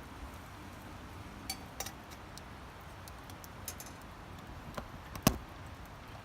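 A few light clinks and clicks of tableware being handled, with one louder knock about five seconds in, over a steady low background noise.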